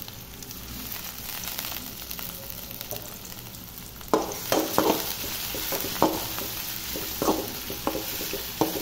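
Chopped onions and tomatoes sizzling in oil in a metal pot. About four seconds in, a spoon starts stirring them, knocking and scraping against the pot several times.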